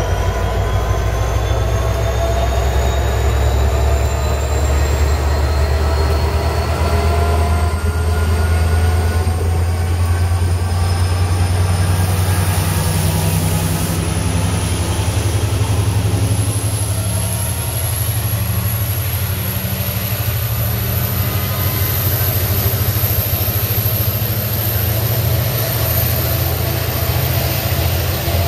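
Passenger train moving along the platform, with a deep steady drone and a whine that rises steadily in pitch as it gathers speed.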